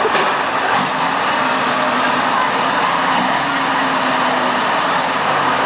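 Twin-turbo diesel engine of a drag racing truck running, loud and steady, its note shifting about a second in and again a little after three seconds.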